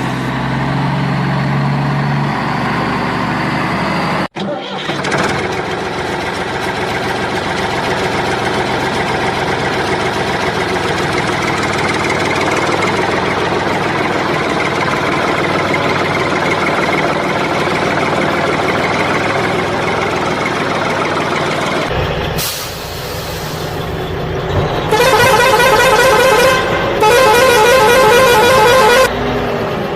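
Toy construction vehicles' electronic sound effects: a pitched sound that cuts off abruptly about four seconds in, then a steady engine-like drone, and near the end two loud horn blasts of about two seconds each.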